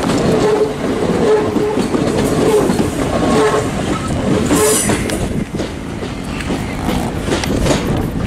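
Class 377 Electrostar electric multiple unit running past and pulling away, its wheels clattering over rail joints. A short tone comes and goes in repeated dashes through the first half, and the train gets a little quieter after about five seconds as it draws away.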